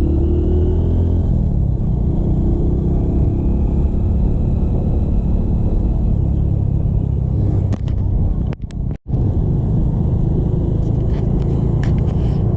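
Steady low rumble of a motorcycle on the move: engine and road noise with wind on the microphone. The sound drops out briefly twice a little past halfway.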